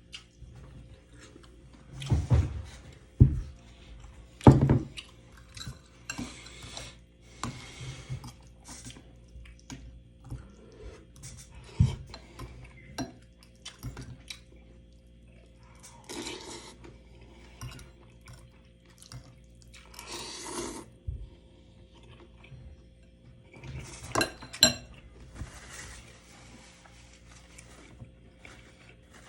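Cutlery clinking and knocking against dishes while a meal is eaten, with several sharp knocks and short noisy scraping sounds in between.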